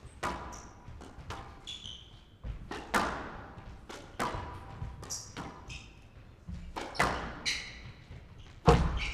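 Squash rally: the ball struck by rackets and smacking off the court walls, about seven sharp hits each with a short ringing tail, the loudest near the end. Shoes squeak on the court floor between the hits.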